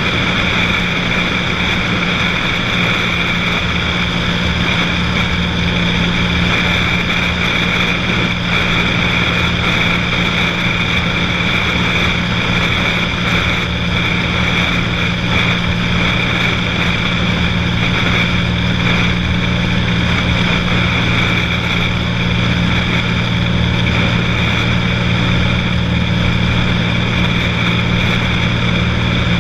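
Cessna 182's piston engine and propeller droning steadily in flight, a constant even hum with no change in pitch or power.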